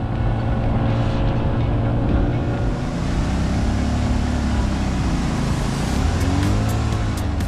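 Motorcycle engine running under way, its pitch rising and falling as the throttle changes.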